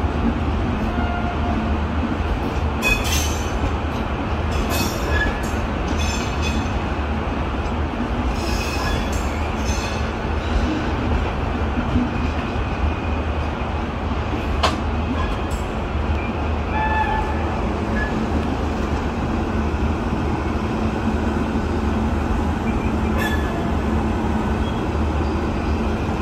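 Sealdah Rajdhani Express passenger train rolling out over the station tracks and points: a steady rumble of coach wheels on rail, with a few sharp clanks and brief high wheel squeals.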